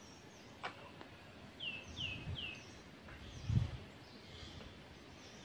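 A small bird calling three short, falling chirps in quick succession about two seconds in, over faint outdoor background noise. A sharp click comes under a second in, and a low thump, the loudest sound, comes about halfway through.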